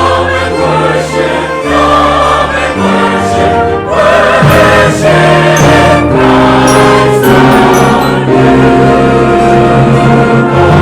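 Choir singing with orchestral accompaniment, sustained chords over bass notes that change every second or two.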